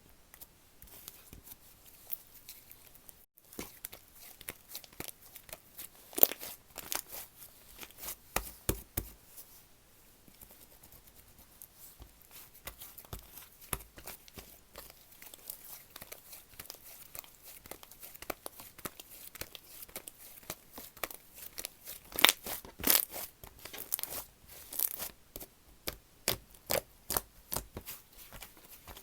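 Slime being squished, stretched and folded by hand, giving irregular sticky clicks and small pops that come thicker and louder near the end.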